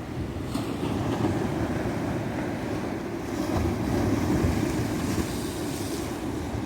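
Ocean surf breaking and washing up a beach: a continuous rush with a rumbling low end, the hiss of the wash swelling about four seconds in.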